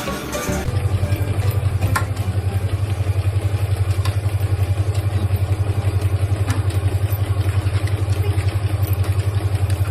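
A loud, low, rapidly pulsing rumble, steady and even, starting just under a second in and cutting off abruptly at the end.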